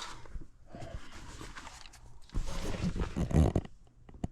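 Things being moved about by hand, with scraping, rustling and knocking; a louder stretch of knocks and shuffling comes about two seconds in.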